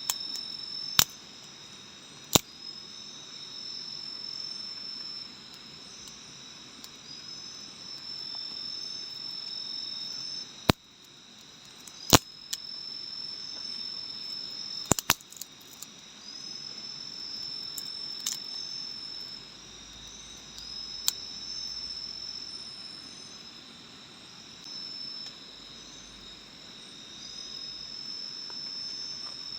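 Forest insects calling: a steady high trill under repeated long calls, each rising at its start and lasting a few seconds. About seven sharp clicks or snaps are scattered through it.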